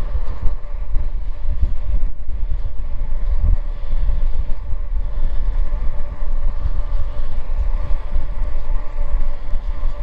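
Wind buffeting on the microphone while riding a Magicycle Cruiser fat-tyre e-bike, a heavy steady rumble, with a steady whine from the bike running along underneath.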